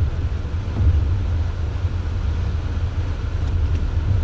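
Four-wheel-drive vehicle driving, heard from inside the cab: a steady low rumble of engine and tyres.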